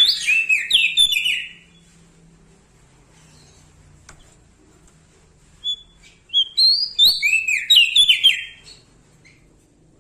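Prenjak daun songbird singing loudly in two bursts of rapid, high chirps that sweep down in pitch. One burst is at the start and the other runs from about six seconds in to near nine seconds, with a pause between them.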